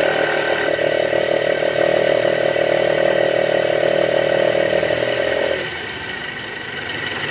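Toyota Alphard engine held at raised revs, with a steady snoring growl ("ngorok") from the worn drive-belt tensioner; about five and a half seconds in the revs drop back and the sound falls to a quieter steady run at idle.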